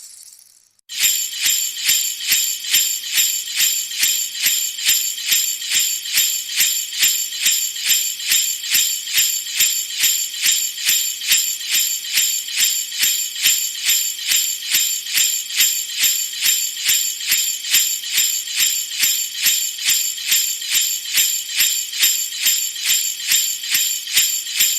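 High-pitched metallic jingling, struck in a steady rhythm of about two shakes a second, starting about a second in.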